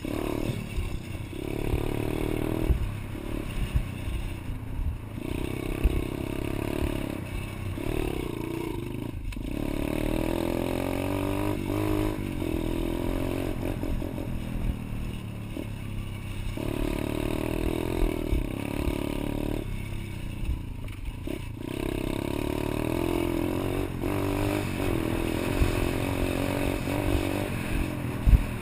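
A pit bike's small engine running through a ride, revving up and easing off over and over, with brief drops in between. Knocks and rattles from the bike come through alongside.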